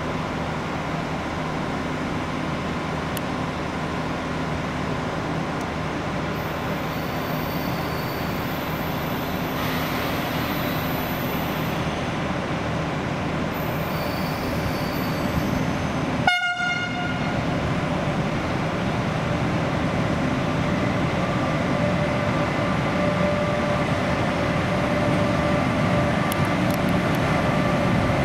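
Portuguese Class 5600 electric locomotive hauling a freight train, rumbling slowly closer. A short horn toot sounds a little past halfway, and a steady whine joins later as it draws near.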